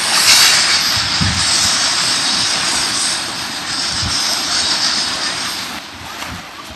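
Ocean surf: a wave breaks and washes up the beach with a loud rushing hiss that swells at the start and eases near the end. A couple of soft low thumps sound under it.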